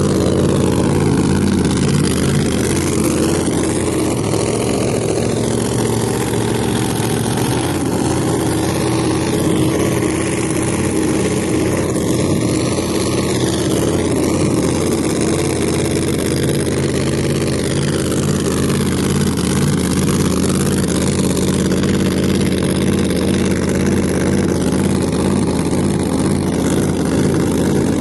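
Drag car engine running steadily at low speed, with no revving.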